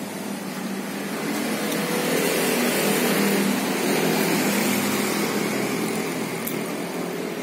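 Sport motorcycle engine idling steadily, its revs rising and falling slightly.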